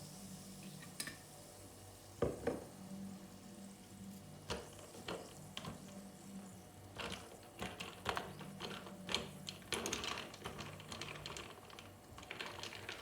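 A run of irregular light clicks and taps over a faint steady low hum, with one louder knock a little over two seconds in.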